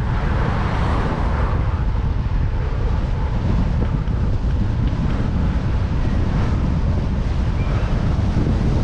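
Strong wind buffeting the microphone of a cyclist's camera: a loud, steady low rumble with a noisy rush over it, briefly louder about a second in.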